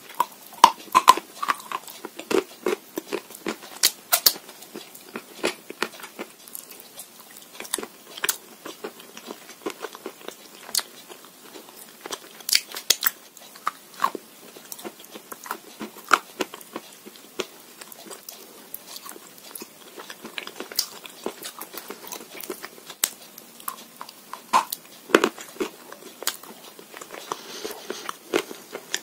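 Chalk and Uzbek clay being bitten and chewed: a steady stream of sharp, irregular crunches and crackles, some bites louder than others.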